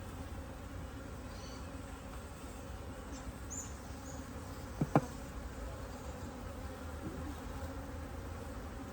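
Honeybees from an open top bar hive humming steadily. A brief sharp sound comes twice in quick succession about five seconds in.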